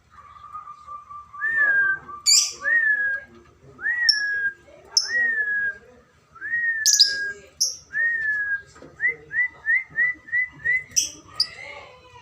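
Lovebirds chirping with sharp, shrill calls now and then, over a series of clear whistled notes. The whistling starts with a fast run of repeated notes on one pitch, moves to six swooping whistles about a second apart, and ends with a quick run of short rising notes.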